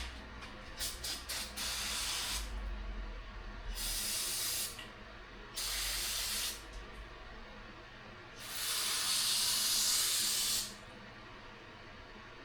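Aerosol carburetor cleaner sprayed onto a dirty carburetor part in four hissing bursts, the last one the longest, at about two seconds. A few light ticks come before the first spray.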